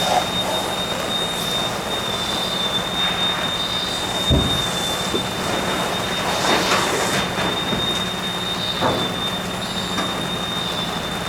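Steady loud rushing of a large fire being fought with hose water, with a continuous high-pitched whine and a low hum under it. A dull thump about four seconds in, and brief louder surges of rushing now and then.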